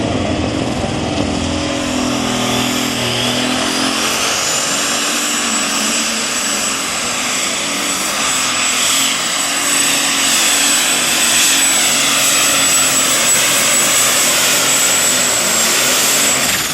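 Super stock pulling tractor's turbocharged diesel engine at full power. A high turbo whine rises over about three seconds, holds steady, then starts to fall away right at the end.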